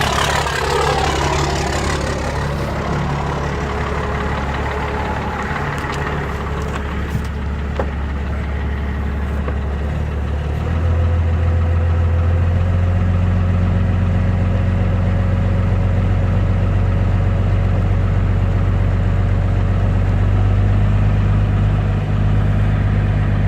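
Cummins turbo diesel idling shortly after a cold start at about −7 °C without a block heater. A whine falls away over the first couple of seconds, and about eleven seconds in the idle note steps up in pitch and gets louder.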